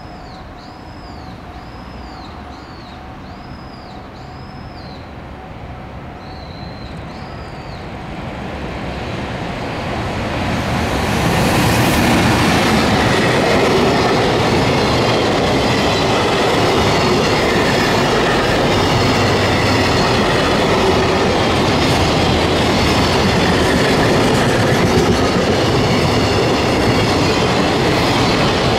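JR Freight EF210 electric locomotive hauling a long container freight train past at close range. The rumble builds over about four seconds as the locomotive nears, then the wagon wheels run steadily and loudly over the rails with a clickety-clack over the rail joints.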